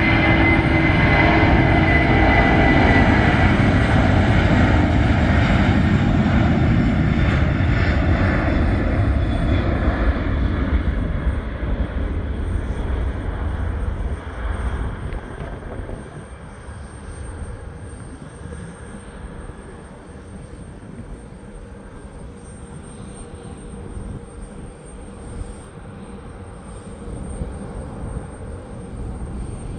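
Boeing 747-400 freighter's four turbofan engines at takeoff power, a loud jet roar with a high whine that slides slightly down in pitch. About ten seconds in, the noise fades to a distant low rumble as the aircraft climbs away.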